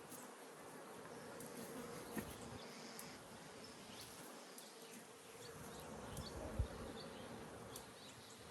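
Honeybees buzzing steadily around an opened hive, a continuous drone with a faint wavering hum. Two soft knocks come through, about two seconds in and again near the end.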